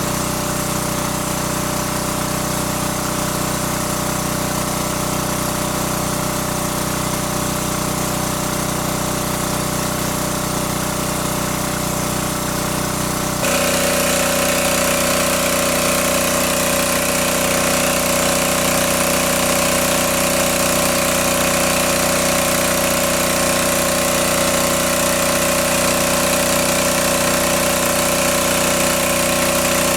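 A small engine running steadily. About halfway through, the sound suddenly becomes louder and its set of pitches shifts, then it runs on steadily.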